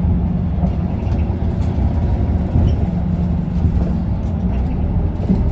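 Inside the cabin of an Isuzu Erga city bus, its four-cylinder diesel engine runs with a steady low rumble and a hum that fades and returns.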